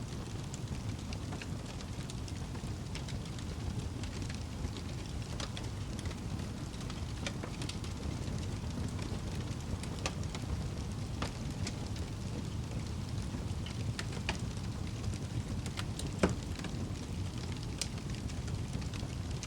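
Fire burning in a fireplace: a steady low rush with scattered crackles, and one louder pop a few seconds before the end.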